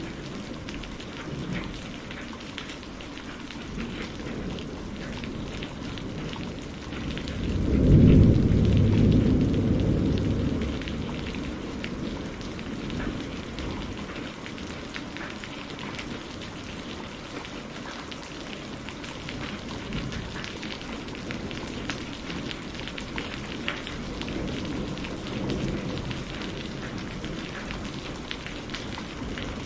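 Steady rain with many separate drops ticking. A low rumble of thunder swells about seven seconds in, is loudest around eight seconds, and dies away over the next few seconds.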